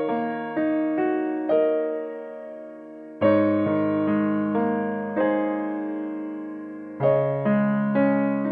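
Background music: a slow, gentle piano piece, with notes and chords struck every second or so and each left to ring and fade.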